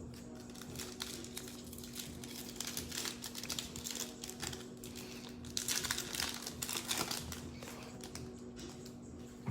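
Trading-card pack wrapper crinkling as it is handled and opened, with cards rustling in the hands; busiest about six seconds in.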